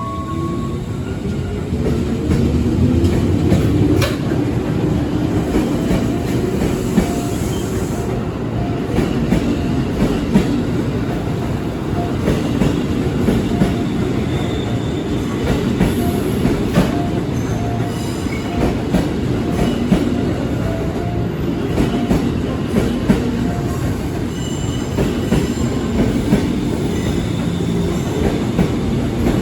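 Former JR 205 series electric commuter train running close by. The motor whine glides upward in the first couple of seconds, and steady wheel-on-rail rumble follows, with clicks over the rail joints.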